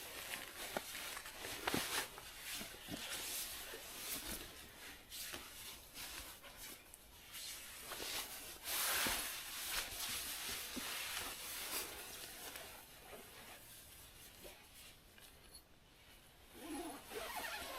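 Rustling of nylon fabric and gear with scattered small clicks, with a louder rustle about nine seconds in.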